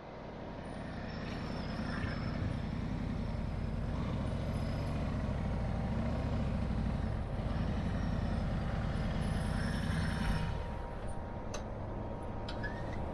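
Harley-Davidson Road Glide Special's Milwaukee-Eight 114 V-twin engine running as the bike rides slowly in, then dropping back to a steady idle about ten and a half seconds in as it comes to a stop.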